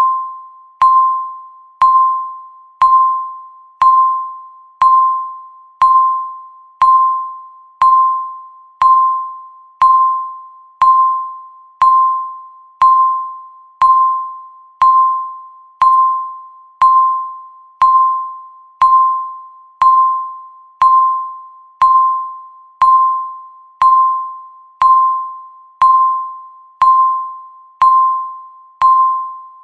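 Countdown timer beeping once a second: a single clear electronic beep that starts sharply and fades away before the next, repeating evenly.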